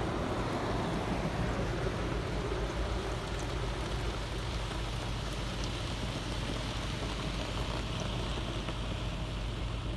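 Automatic car wash gantry spraying water or wax onto the car body, heard from inside the cabin as a steady rain-like hiss and patter on the roof and windows, with a low rumble of the gantry machinery under it.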